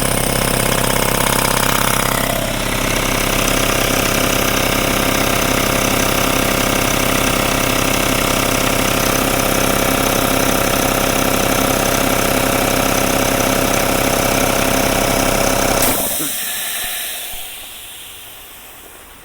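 Craftsman 5 HP 20-gallon air compressor running steadily under load as it fills its tank. About 16 seconds in it shuts off, the tank now full, and a hiss of escaping air fades away.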